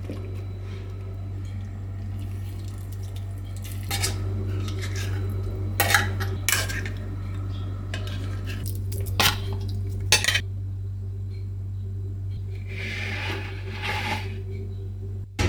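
Metal utensils and dishes clinking and scraping in a kitchen, a handful of sharp clinks among softer scrapes, over a steady low hum.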